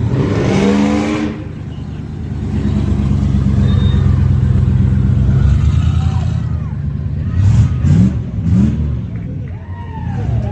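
A car engine revs up sharply at the start, runs steadily, then is blipped twice in quick rises near the end.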